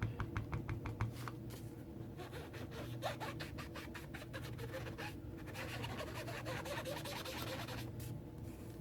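Small craft sponge dabbed on an ink pad in a quick run of soft taps, then rubbed in circles across card stock with a scratchy scraping, about halfway through.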